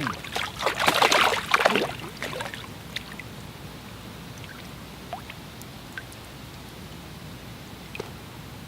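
Water splashing and sloshing for about two seconds, then a few faint ticks and clicks over the background.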